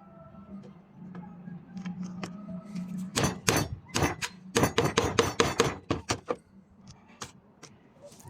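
A steady low hum, then a quick run of about a dozen sharp knocks over some three seconds, ending in a few scattered clicks.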